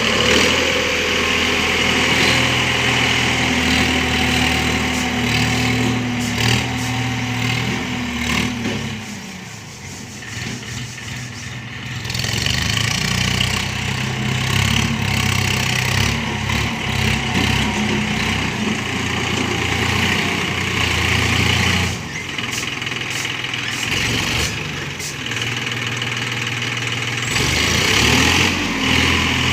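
Swaraj 963 FE tractor's diesel engine running steadily. It eases off for a few seconds about nine seconds in, then picks up again, and the revs rise near the end.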